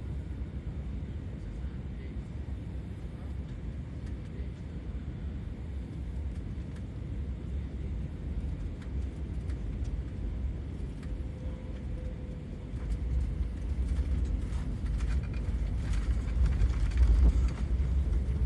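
Passenger-jet cabin noise heard from inside the cabin during the landing: a steady low rumble of engines and airflow that grows louder and rougher about two-thirds of the way through, with a few short knocks near the end.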